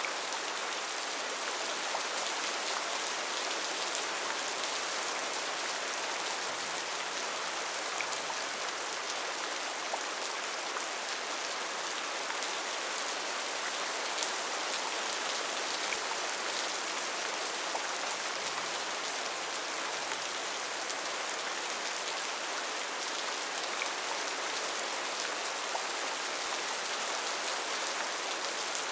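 Steady heavy rain falling on a tin roof: an even, dense patter with individual drops ticking through it.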